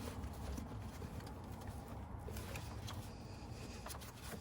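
Faint handling sounds of a part being pushed into place in an engine bay: light scattered clicks and taps over a steady low rumble.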